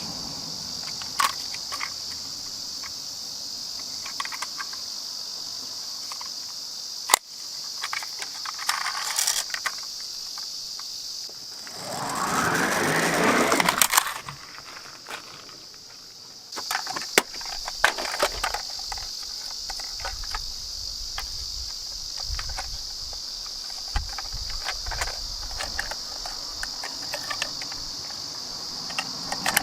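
Die-cast toy cars clicking and knocking as they are handled, and one of them rolling down a slope about halfway through, its rolling noise growing louder for about two seconds before stopping. Under it runs a steady high-pitched insect drone.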